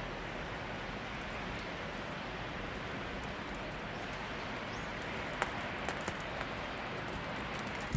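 Steady rain falling, an even hiss, with a few sharp ticks of drops striking something close by in the second half, the loudest about five and a half seconds in.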